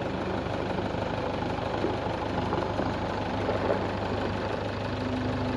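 An engine running steadily at an unchanging speed, with a constant low hum.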